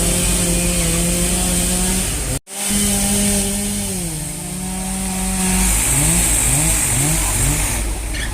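Heavy diesel engine of construction machinery running hard with a steady pitch, which drops about four seconds in. Near the end it is blipped up in pitch four times in quick succession. The sound briefly cuts out about two and a half seconds in.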